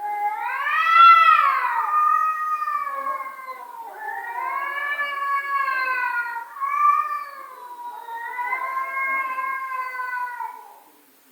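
Domestic cat yowling: four long, drawn-out, wavering calls, the first one the loudest, rising and then falling in pitch.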